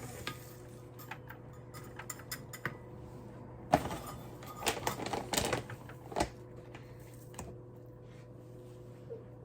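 Irregular light clicks and taps of hard plastic and bird seed being handled in a clear plastic window bird feeder, with the loudest clicks a little under four seconds in and a cluster around five seconds.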